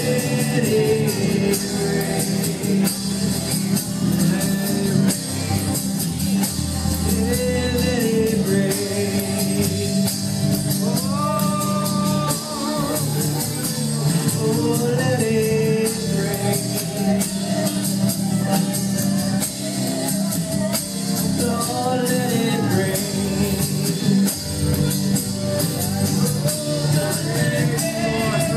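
Live worship band playing, with guitar, keyboards and drums under voices singing.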